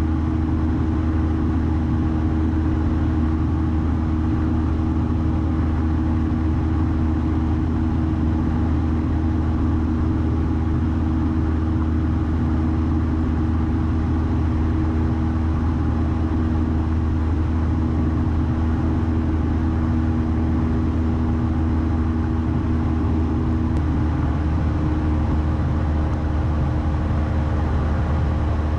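Steady drone of a 1972 Cessna 172's four-cylinder piston engine and propeller, heard from inside the cabin in flight. The engine tone shifts slightly near the end.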